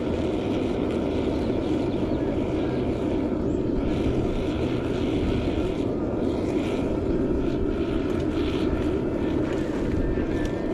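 Gas burner of a small metal melting furnace running steadily with an even, dense rushing sound.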